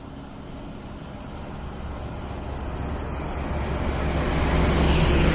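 A truck approaching on the highway, its engine drone and tyre noise growing steadily louder until it is nearly alongside near the end.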